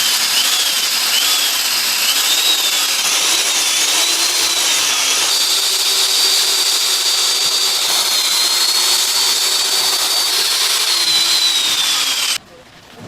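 Motorized machine running loudly, its whine rising and falling in pitch as if under changing load, then cutting off suddenly near the end.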